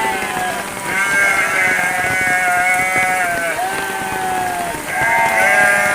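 Sheep bleating: several long, drawn-out calls at different pitches, some overlapping, over the steady hiss of rain falling.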